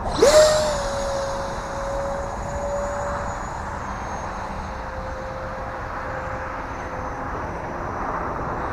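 Electric ducted-fan motor of an E-flite F-15 Eagle RC jet in flight: a whine that climbs quickly in pitch at the start, then holds and slowly sinks in pitch, over a steady rush of air.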